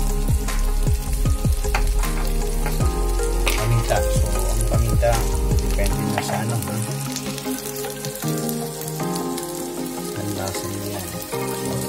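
Butter garlic chicken sizzling and crackling as it fries in a wok, with background music playing over it.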